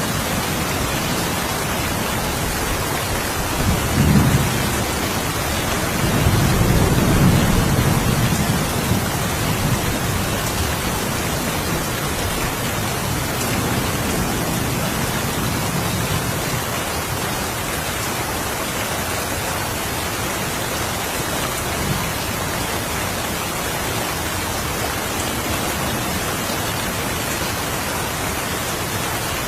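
Steady rain falling, with low thunder rumbling about four seconds in and again from about six to eight seconds, then fainter rolls later on.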